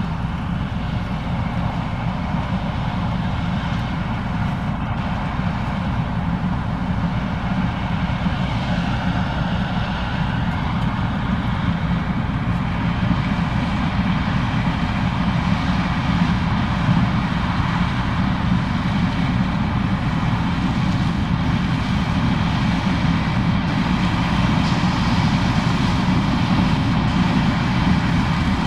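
Case IH 2366 combine running steadily while harvesting corn: a dense, even engine and machinery drone with faint steady whining tones above it, growing slightly louder toward the end.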